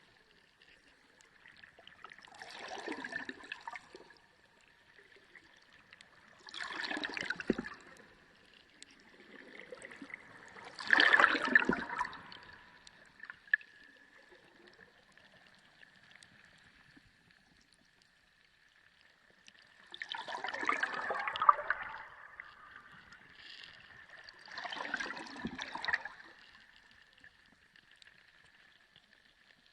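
Sea water sloshing in separate surges, each a second or two long, at first about every four seconds, then a long lull before two more. A faint steady high tone runs underneath.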